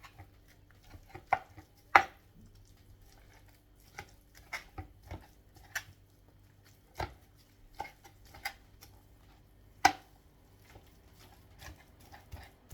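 Knife chopping boiled chicken: irregular sharp knocks, loudest about two seconds in and again near the ten-second mark.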